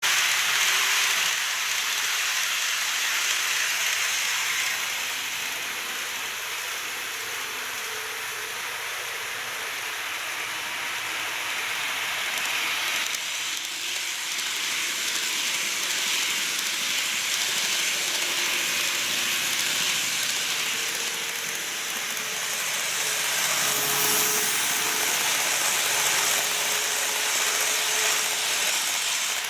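Model electric trains running on the layout's track: a steady rolling hiss from the wheels on the rails, with a faint motor whine coming in about two-thirds of the way through.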